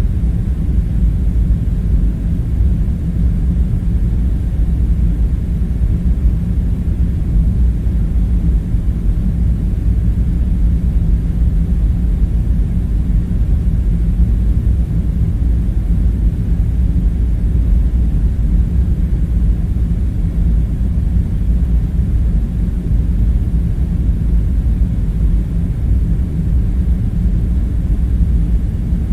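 Steady low rumbling hum, a continuous ambience drone with no distinct events.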